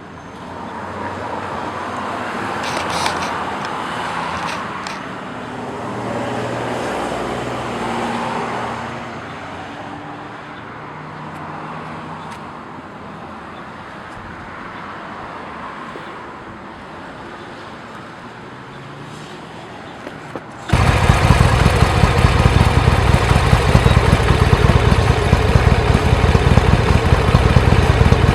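Cars and traffic passing, rising and falling. About two-thirds of the way in it switches suddenly to a much louder engine running close by, heavy in the low end.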